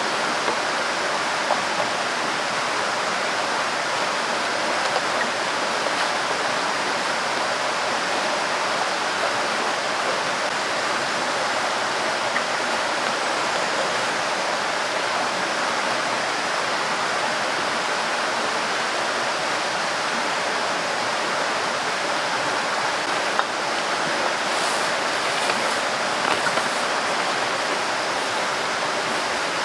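Steady, even rush of running water with a few faint ticks scattered through it.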